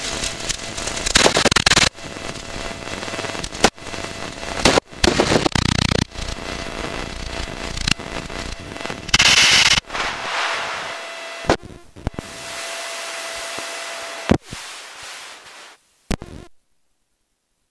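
Crackling static and hiss on the cockpit radio and intercom audio feed, cutting in and out abruptly many times with a faint steady tone under it, then going dead about sixteen seconds in.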